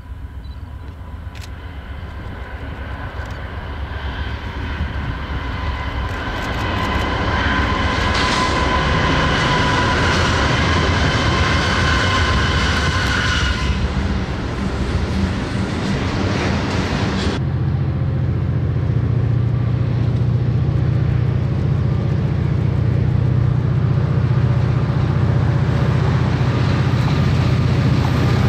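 Diesel freight train approaching and passing. A rumble grows louder over the first several seconds, with a steady high whine over it for about ten seconds. Then the low drone of the locomotive engines takes over.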